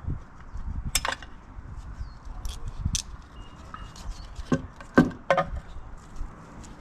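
Metal tools and engine parts clinking and knocking during a motorcycle engine teardown: a few scattered sharp clinks, with a quick cluster of knocks about five seconds in, the loudest of them.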